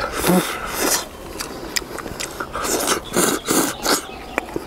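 Eating sounds: a man biting and chewing grilled fish off a skewer, in irregular noisy bursts with sharp clicks of teeth and lips.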